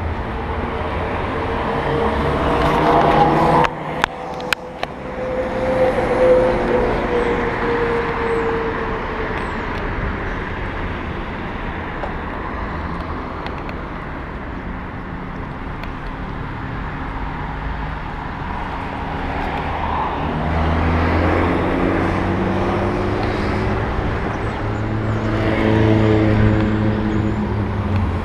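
Road noise while riding an electric bicycle in traffic: a steady rumble and rush, with motor vehicles passing. Their engine sound rises and falls twice, a few seconds in and again near the end, and there are a few sharp clicks about four seconds in.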